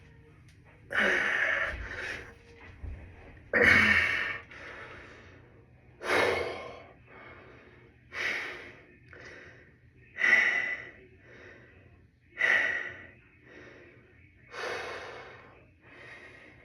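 A person breathing hard, with a loud, forceful breath about every two seconds, the heavy breathing of physical exertion.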